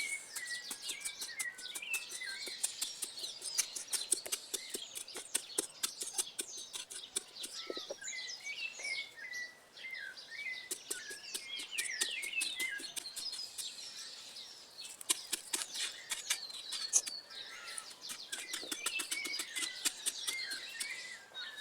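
Small birds chirping and trilling continuously, over quick, repeated scrapes and knocks of a tool digging into earth, which pause briefly about halfway through.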